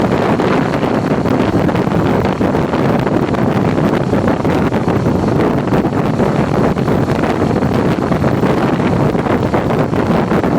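Loud, steady wind rush on the microphone of a motorcycle riding along at speed.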